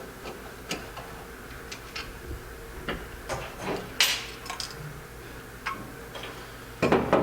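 Light clicks and clinks of small metal parts and hand tools being handled while a Motorcraft single-barrel carburetor is taken apart. There is a louder clack about four seconds in and a short cluster of louder knocks near the end.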